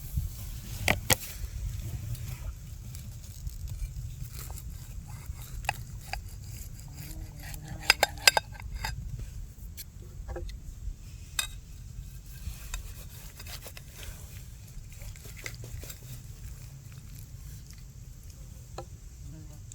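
Metal utensils clinking and scraping against cookware in scattered strokes, two sharper clinks about eight seconds in, over a steady low rumble.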